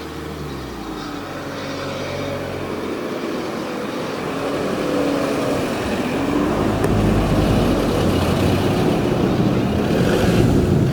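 SR U Class 2-6-0 steam locomotive and its train approaching and running past, a rumbling sound that grows steadily louder and is loudest in the second half.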